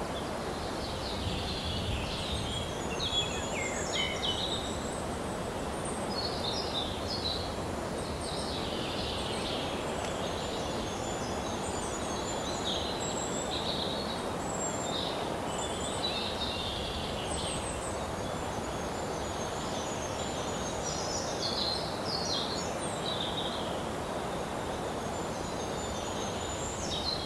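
Small birds singing and chirping repeatedly over a steady outdoor background hiss.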